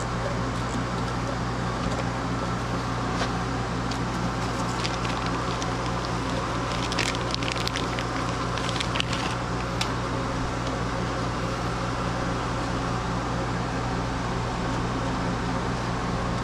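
A steady low mechanical hum, with a cluster of small clicks and rattles about seven to nine and a half seconds in.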